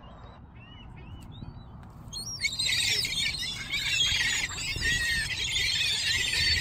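A flock of gulls calling: a few single squeaky calls at first, then, about two seconds in, many gulls squealing and squawking at once in a dense, loud chorus as they compete over a slice of bread.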